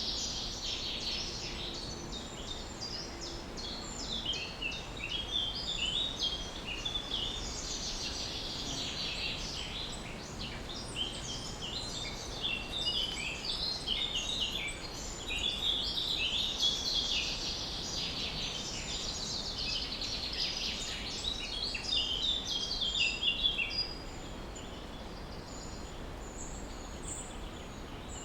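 Several birds chirping and singing over one another in a busy chorus of short, quickly repeated high notes, thinning out near the end, over a steady low background noise.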